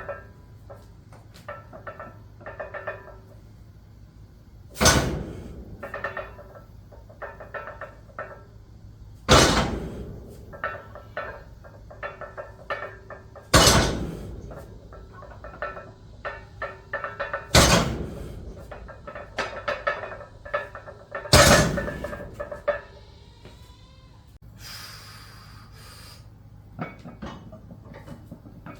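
Loaded Olympic barbell set down onto steel rack pins during deadlift reps: five hard metallic clanks about four seconds apart, with the plates and collars rattling and clinking in between as the bar is lifted and lowered.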